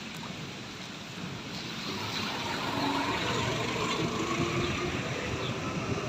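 Rain falling, a steady hiss that swells louder from about two seconds in.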